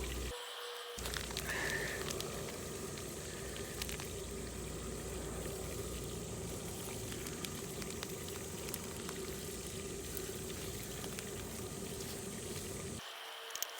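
Food sizzling and bubbling in a pot over a wood fire, with a steady hiss and many small crackling pops.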